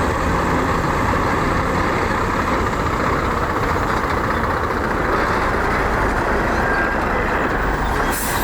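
Heavy diesel earthmoving machinery running steadily under load, with a brief hiss near the end.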